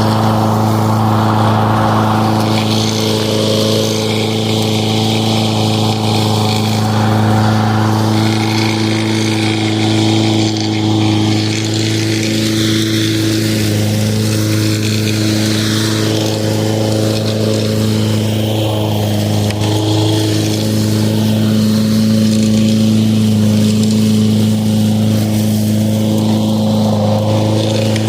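Lawn mower running at a steady pitch, a constant hum, with a shifting hiss above it.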